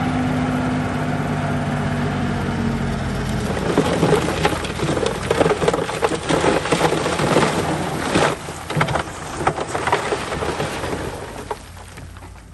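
A heavy diesel machine engine running steadily, then from about four seconds in a dense crackling and clattering of dirt and broken stone tumbling and scraping for about seven seconds, dying away near the end.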